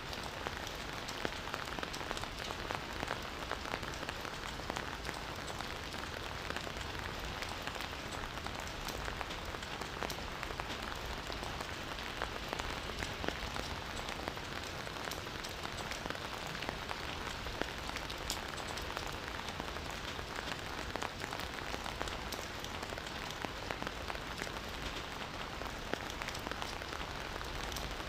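Steady rain falling, an even hiss dotted with many individual drops ticking close by.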